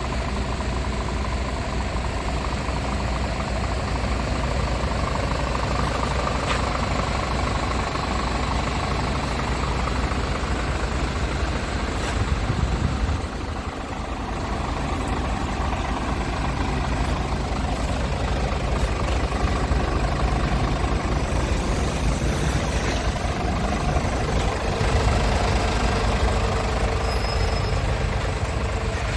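Diesel engine of a 2019 Scania S tractor unit idling steadily, with a brief swell and dip about twelve seconds in.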